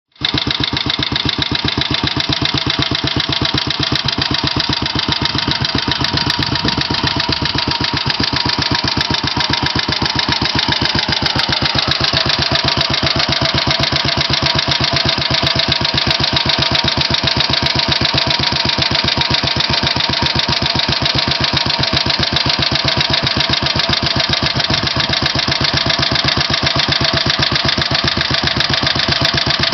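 BMW R35 motorcycle's single-cylinder four-stroke engine running at a steady idle on its first run after being fired up, each firing pulse coming through as an even, rapid beat.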